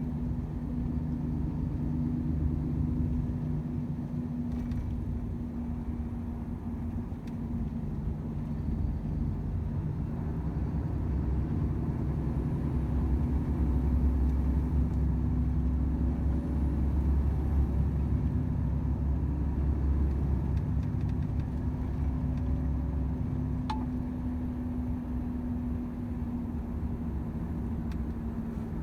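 Volvo FH 500 truck's 13-litre six-cylinder diesel engine droning steadily under way, with low road rumble that grows louder in the middle of the stretch.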